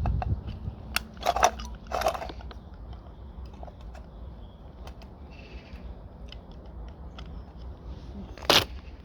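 Light clicks and rattles of things being handled, with louder knocks about one and a half, two and eight and a half seconds in.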